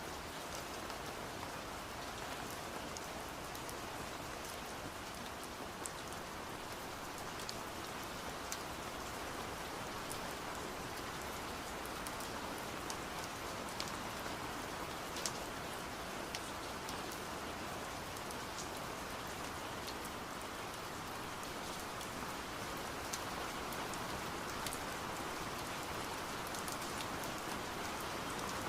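Steady rain hiss with scattered sharp taps of raindrops striking window glass.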